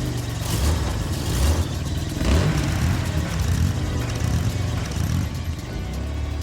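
Cartoon vehicle engine sound effects, running and revving, with a louder noisy burst a couple of seconds in.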